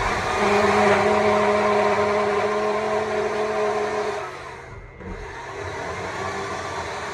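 Stihl MSA 200 C battery chainsaw running with a steady whine as it carves into a wood stump. About four and a half seconds in the sound drops away almost to nothing, then picks up again less loudly.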